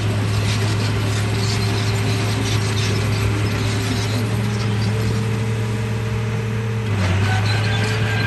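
RC bulldozer running under its own drive, a steady motor hum with clattering from the gears and tracks; the tones shift in pitch about seven seconds in.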